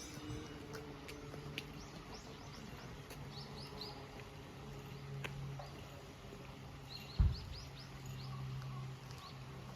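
Small songbird singing: two quick runs of short, high, falling chirps and a few single chirps, over a faint low steady hum. A dull thump about seven seconds in.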